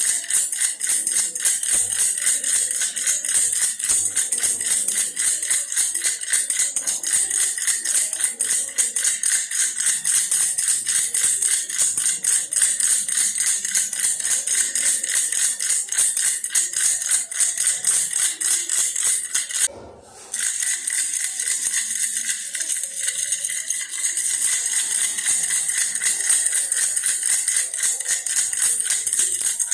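Baby toy bear rattle shaken rapidly and steadily, a dense bright jingling rattle that breaks off for a moment about two-thirds of the way through.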